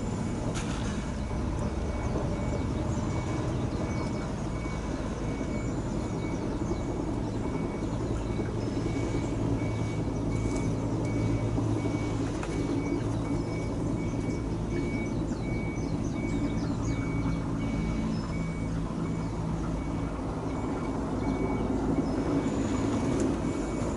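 Steady low drone of an engine running at idle, with a faint, evenly repeating high beep and a few faint bird chirps over it.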